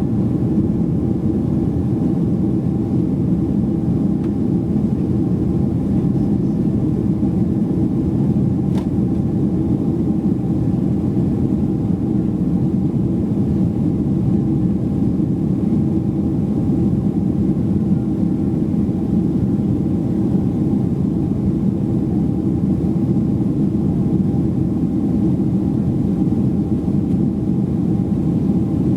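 Steady cabin drone of a Boeing 767-300ER jet airliner in flight: an even low rumble of engines and airflow with a faint steady hum above it.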